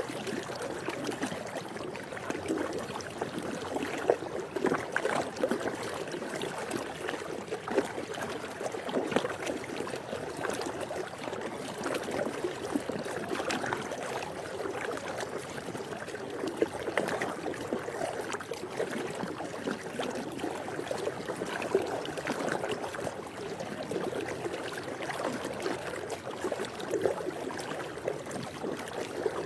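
Swimming-pool water lapping and splashing, a steady sloshing wash broken by small splashes and drips.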